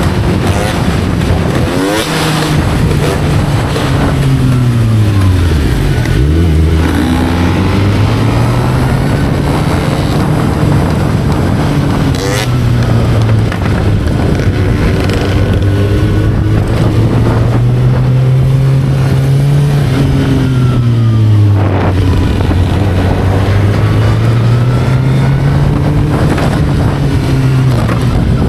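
Motorcycle engine under way, its pitch climbing and dropping repeatedly as the rider accelerates, shifts and slows, over steady wind noise.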